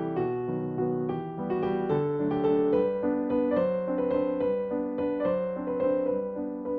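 Background piano music: a gentle melody of notes following one another every half second or so.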